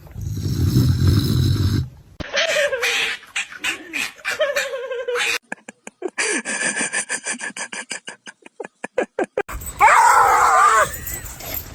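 Several short clips in a row. First a low rumbling noise, then a rapid, even run of clicks lasting about four seconds. Near the end a dog whines in high, wavering tones.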